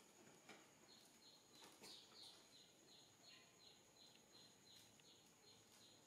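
Near silence, with a faint small bird chirping over and over outside, about three short high chirps a second, and a few soft clicks early on.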